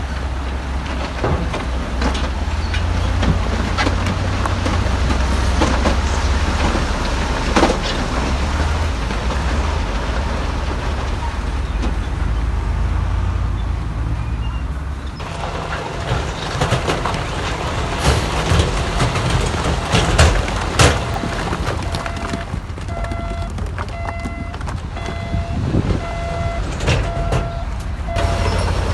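Heavy earthmoving machinery at work: an engine running with a steady low drone, then sharp knocks and clanks. In the last few seconds a reversing alarm beeps steadily, a bit more than once a second.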